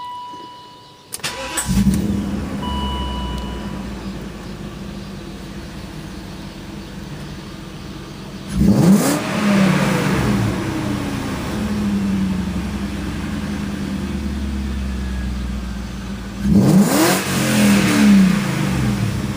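1998 BMW 540i's 4.4-litre V8 cranking and catching about a second in, then idling loudly through an aftermarket Magnaflow muffler in a closed garage. It is revved up and let fall back twice, once about halfway through and again near the end with a couple of quick blips.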